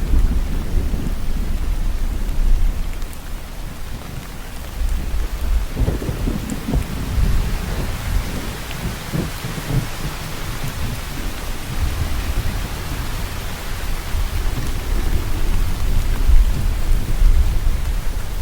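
Rain falling steadily with a deep rumble of thunder rolling underneath. The rumble eases a few seconds in and swells again around six seconds.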